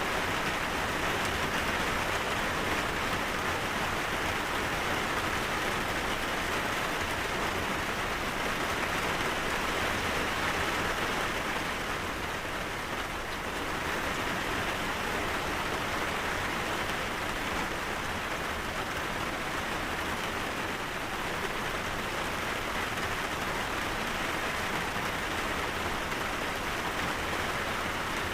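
Steady rainfall, an even hiss of rain on surfaces, dipping slightly in loudness about halfway through.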